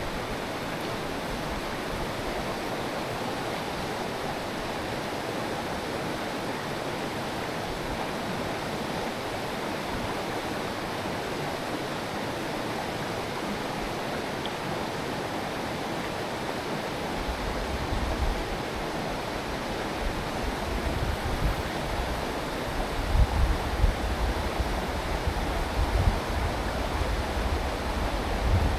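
Mountain stream rushing steadily over rocks. From a bit over halfway in, low gusts of wind buffet the microphone, now and then louder than the water.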